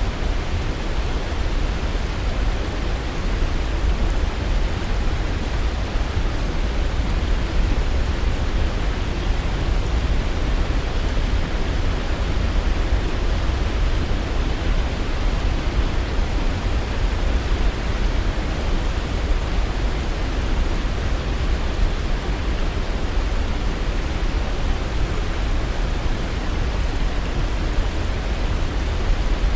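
Waterfall: a steady rush of falling water with a deep low rumble, even and unbroken.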